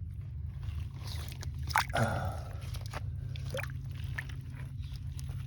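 Shallow water sloshing, with a brief splash and a few sharp knocks about two seconds in, over a steady low rumble.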